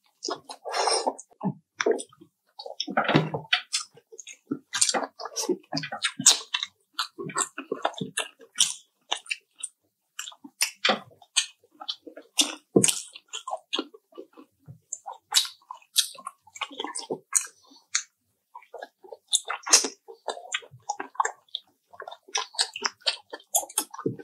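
Close-miked chewing of fried chicken: an irregular string of short, wet smacks and clicks.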